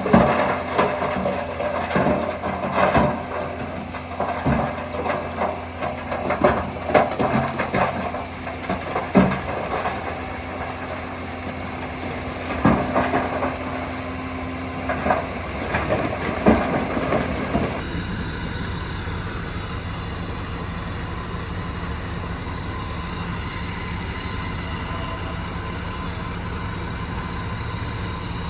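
Heavy diesel earthmoving machinery running, with irregular clanks and knocks of metal and material for most of the first two-thirds. About two-thirds of the way in the sound changes suddenly to a steadier engine note with more hiss.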